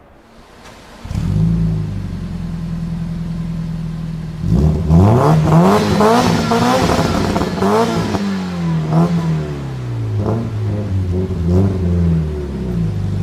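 A supercar engine starting about a second in and settling into a steady idle, then revved hard several times, its pitch rising and falling. Shorter blips follow, with sharp cracks between them.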